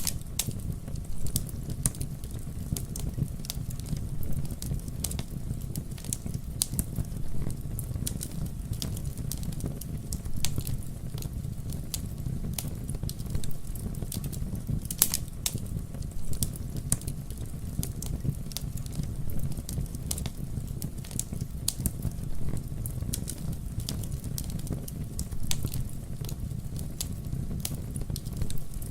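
Campfire burning: a steady low rumble of flames with frequent, irregular sharp crackles and pops of burning wood.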